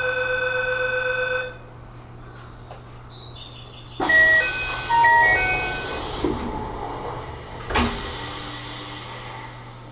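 Train departure sounds at a station stop: a steady electronic buzzer tone cuts off about a second and a half in. About four seconds in comes a rush of noise with a short run of electronic chime notes, typical of a train's door-closing chime. A sharp thump follows near eight seconds, fitting the doors shutting.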